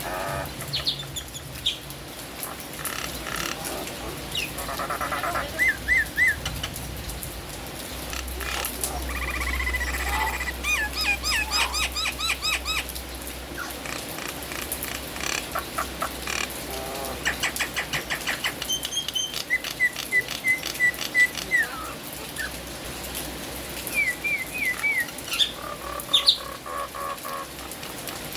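Nias hill myna singing: loud whistled notes and quick rising and falling glides, broken by fast rattling runs of clicks, over a steady hiss of rain.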